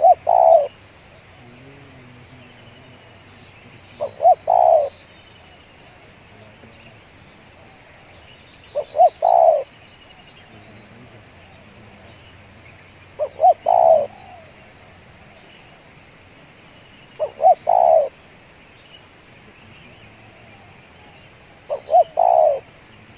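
Spotted dove cooing: its three-part call, two short notes and a longer one, repeated six times about every four and a half seconds.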